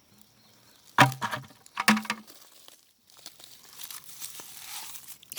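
Close tearing and crackling of plant material: two sharp crackles about a second apart, then a longer ripping rustle, as a big clump of moss is pulled up from the forest floor.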